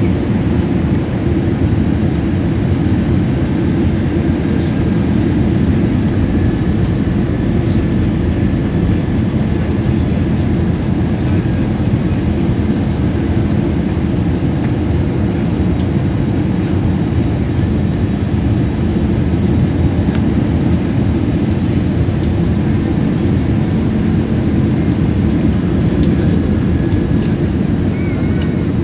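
Airliner cabin noise: a loud, steady low rumble of engines and rushing air that stays even throughout.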